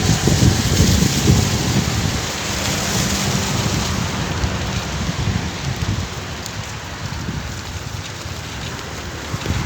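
Heavy rain pouring down in a thunderstorm, a steady hiss, with a heavier low rumble in the first couple of seconds.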